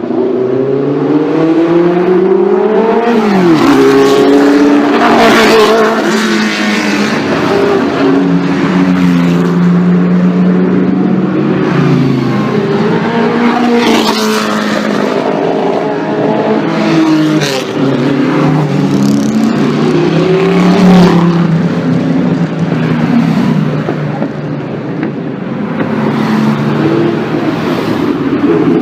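Classic racing car engine accelerating hard, its pitch climbing and dropping sharply at each gear change, several times over.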